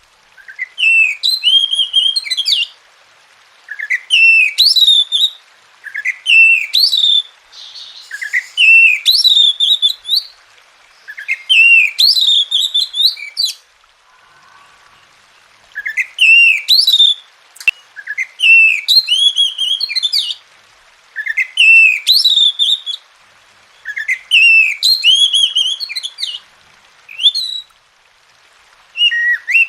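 Oriental magpie-robin (kacer) singing: about eleven short phrases of rising whistled notes, each a second and a half to two and a half seconds long, with pauses of about a second between them.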